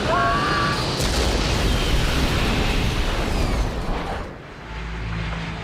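Explosion-like rumbling blast: a sharp crack about a second in, then a dense roar that dies away near the end, leaving a low hum.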